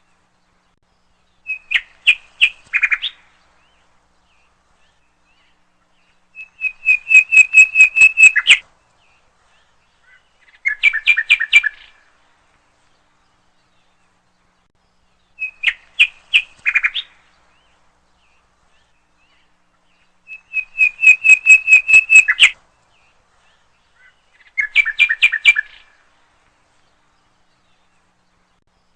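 A songbird singing phrases of rapid, repeated chirping notes, six phrases with pauses of a few seconds between them; three different phrase types come in turn and then repeat in the same order.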